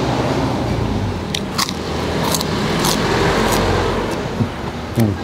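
Crisp kerupuk cracker being bitten and chewed close to a clip-on microphone: about five sharp crunches between one and four seconds in.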